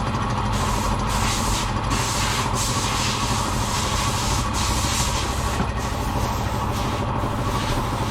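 An engine running steadily, with a hiss over its low hum.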